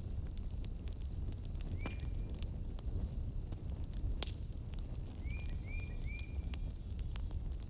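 Wood fire in a fireplace crackling, with scattered sharp pops over a low steady rumble. A short high chirp sounds about two seconds in, then three more in quick succession a little past halfway.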